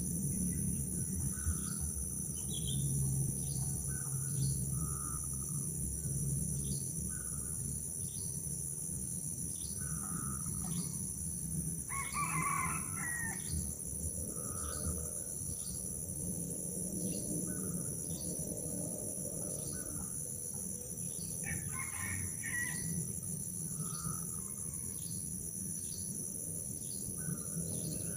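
A rooster crowing twice, about twelve and twenty-one seconds in, with short clucks or chirps repeating about once a second and a steady high-pitched hiss underneath.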